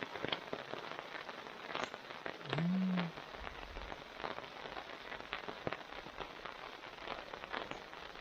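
Steady rain falling, with many individual drops ticking sharply. A short hummed vocal sound rises and falls about two and a half seconds in.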